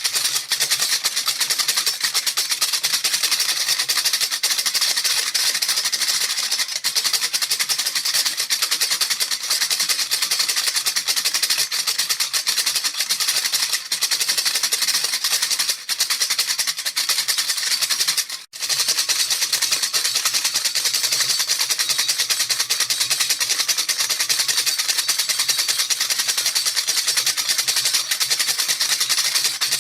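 A baby rattle shaken rapidly and without pause, a dense fast stream of rattling beads, with one brief break about two-thirds of the way through.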